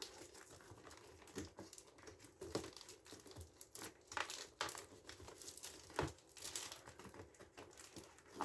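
Flexible duct hose crinkling and rustling as it is handled and fitted, with scattered clicks and knocks; one sharper knock about six seconds in.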